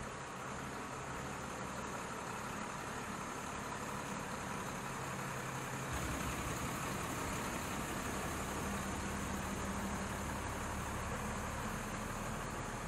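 A steady low engine hum under a constant wash of background noise. The hum changes and grows louder about six seconds in.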